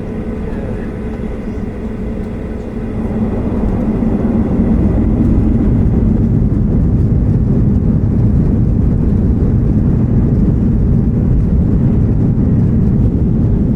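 Boeing 737-800's CFM56 jet engines heard from inside the cabin, a steady low roar that grows louder about three to four seconds in and then holds: the engines spooling up to takeoff power for the takeoff roll.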